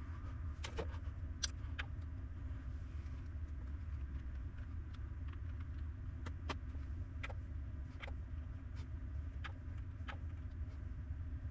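Light, irregular clicks and taps, as of small parts and tools being handled on a workbench, over a steady low hum.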